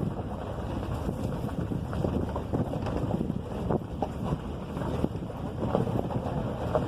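Steady low rumbling noise with wind buffeting the microphone.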